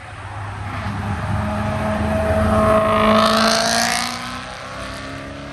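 A sports car accelerating hard past, its engine note growing louder to a peak about three seconds in and then falling away as it goes by.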